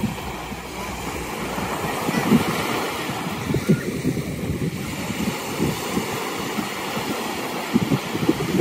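Ocean surf washing steadily, with wind buffeting the microphone in frequent short low thumps.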